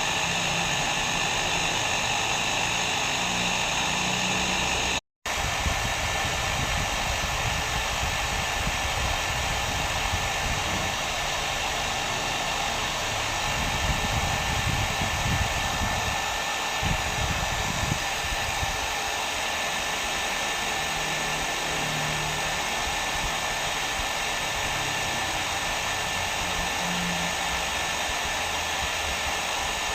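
Hair dryer blowing steadily, a continuous airy hiss. About five seconds in it cuts out for a split second and resumes with a slightly different tone and a thin steady whine.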